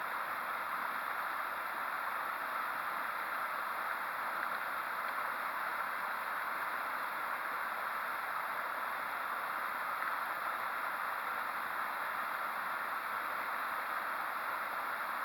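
Waterfall on a river, its water rushing in a steady, even wash with no change.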